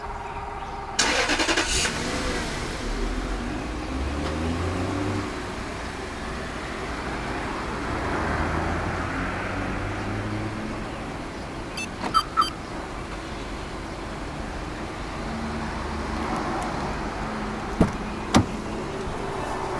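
Toyota Celsior's 4.3-litre V8 remote-started: a brief crank that catches about a second in, then the engine settles into a steady idle. Two short electronic beeps sound about halfway, and two sharp clicks come near the end.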